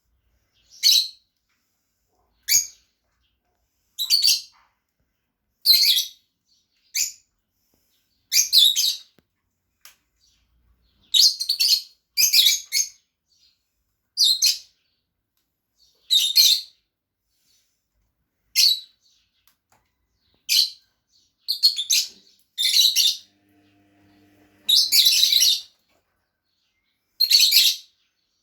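Pet lovebirds giving short, shrill chirping calls, one or two at a time, at irregular intervals of a second or two.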